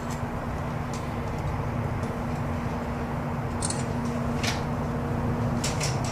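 Steady low rumble and hum inside a moving aerial tram cabin, with a few sharp clicks.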